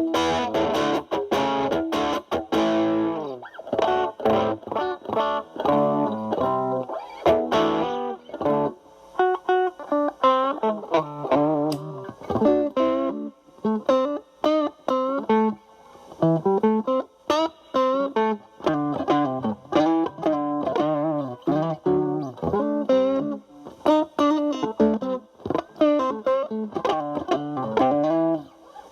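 Fender Stratocaster played through a Boss DS-2 Turbo Distortion pedal in turbo mode, its distortion knob at about nine o'clock, into a Marshall Valvestate amp on its clean channel. Chords are struck and let ring for the first few seconds, then from about nine seconds in comes a single-note lead line with vibrato.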